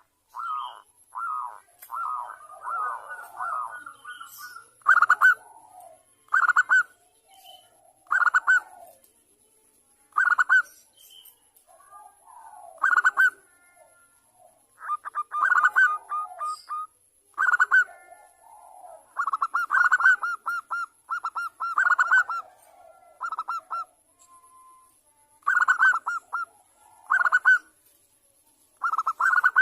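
Zebra doves (perkutut) cooing: short, rapid, staccato phrases repeated every second or two, with softer lower notes in between. This is a lure call of the kind played to get other doves to start calling.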